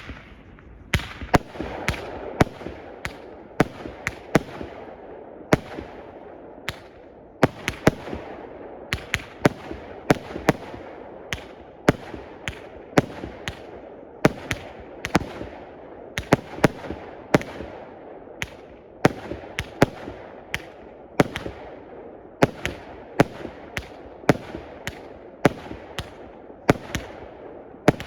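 20 mm, 138-shot fireworks cake firing shot after shot, a sharp bang about one to two times a second, each ringing out briefly before the next.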